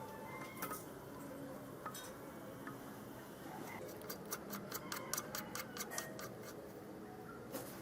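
Sharp, light clicks from hand work on the planer's parts: a few single clicks at first, then a quick run of about ten, roughly five a second, and one more click near the end.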